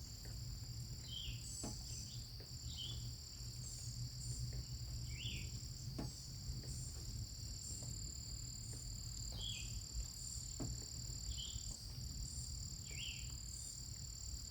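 Outdoor insect chorus: a steady, high continuous trill, with short chirps every second or two and a steady low hum underneath.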